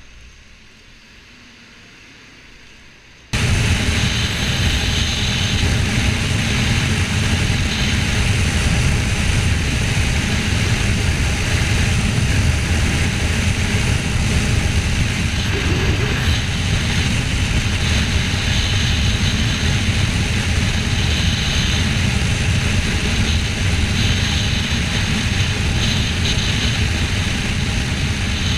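Motorcycle riding at road speed, heard from a helmet or bike-mounted camera: steady wind rush over the microphone with the engine running underneath. It starts abruptly about three seconds in after a quiet low hum.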